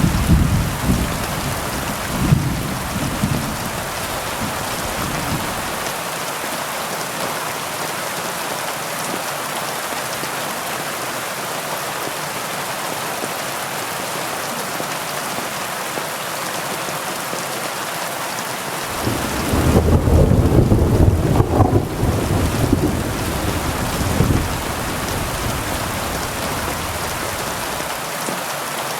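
Heavy rain falling with a steady hiss. Thunder rumbles low in the first few seconds, and a louder roll of thunder comes about twenty seconds in and dies away over several seconds.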